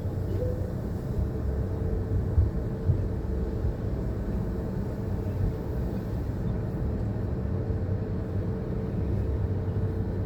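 Automatic car wash machinery running: a steady low rumble under a faint steady hum, with two short thumps about two and a half and three seconds in.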